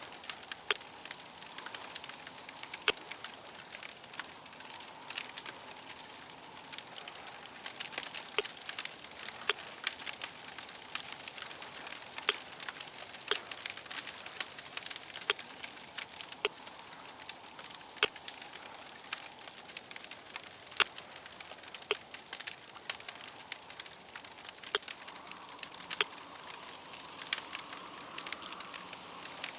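Wood fire crackling, with frequent irregular sharp pops and snaps over a steady hiss.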